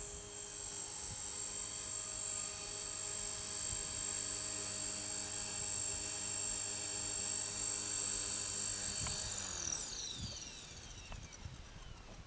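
Electric RC helicopter (Align T-Rex 450 Pro) with a steady high whine from its motor and rotor. About nine seconds in, the pitch falls away and fades as the motor and rotor spool down.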